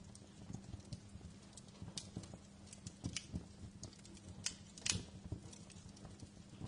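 Wood fire in a fireplace crackling: irregular sharp snaps and pops over a low steady background, with the loudest pop about five seconds in.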